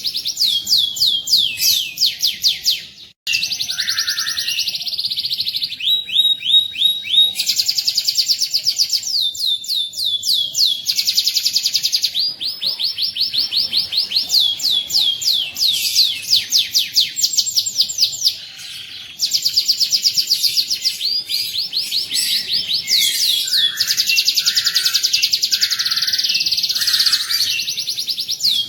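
Domestic canary singing a long song of fast rolling trills, each a run of rapidly repeated notes, with brief breaks about three seconds in and again about two-thirds of the way through.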